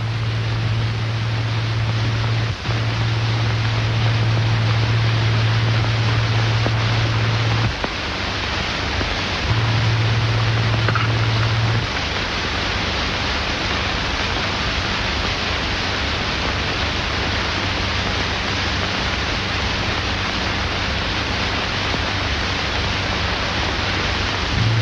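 Steady hiss of an old 1930s optical film soundtrack, with no dialogue or music. A low hum runs underneath and cuts out about eight seconds in. It comes back briefly a couple of seconds later, then drops away again.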